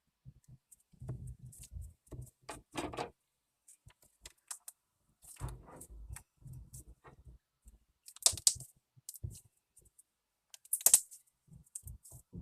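Slime being mixed and squeezed by hand: irregular sticky clicks and squelches, with two louder sharp pops in the second half.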